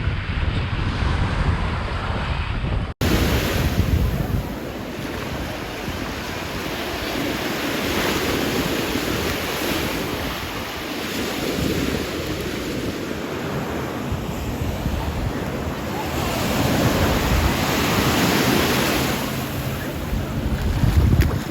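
Sea waves washing onto a sandy beach in slow swells, with wind buffeting the microphone. The sound drops out for an instant about three seconds in.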